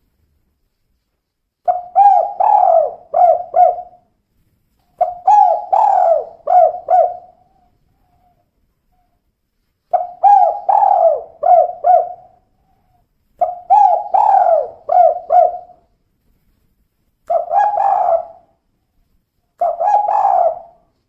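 Female spotted dove (tekukur) cooing in six separate phrases. Each phrase is a quick run of short, low coo notes, with gaps of a second or two between phrases.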